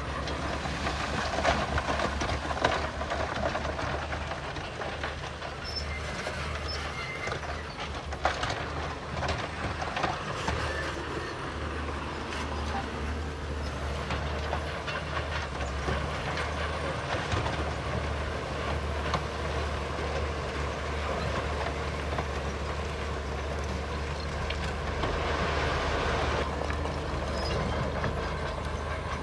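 Crawler bulldozer working: a steady diesel rumble with its steel tracks clanking and squealing, and scattered knocks of stone throughout.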